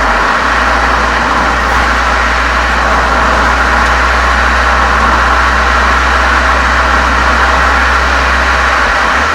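Volkswagen Golf 7 GTI's turbocharged 2.0-litre four-cylinder running steadily through a Cox aftermarket muffler and chamber, heard at the exhaust from outside the car: a constant low drone with a rushing hiss over it.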